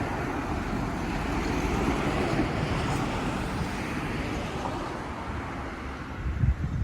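A road vehicle passing, its rumble swelling and then fading away, with wind buffeting the microphone near the end.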